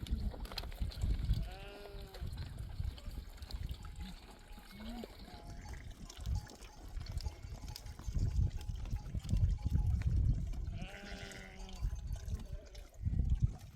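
Sheep bleating: two short wavering bleats, about two seconds in and again near eleven seconds, with a fainter call between them. Wind rumbles on the microphone throughout.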